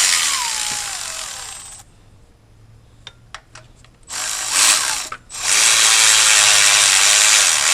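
Power ratchet running in bursts while bolts are taken out: the first run winds down in pitch and stops a couple of seconds in, a few light clicks follow, then a short burst and a longer steady run near the end.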